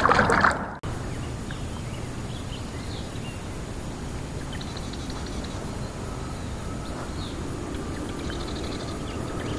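A loud rush of noise cuts off abruptly under a second in. Then quiet outdoor ambience follows, with scattered short bird chirps and a couple of brief rapid trills.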